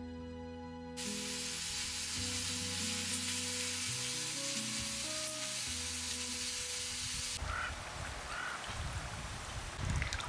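Sausages sizzling on a barbecue grill, a steady hiss that starts about a second in and stops abruptly around seven seconds, under soft background music. After the sizzling stops, a rougher rustling with scattered clicks follows.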